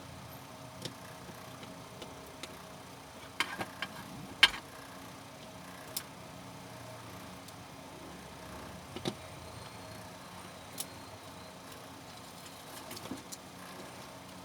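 Scattered light clicks and taps of small hard objects being handled, a quick cluster about three and a half seconds in and the sharpest a second later, over a faint steady hum.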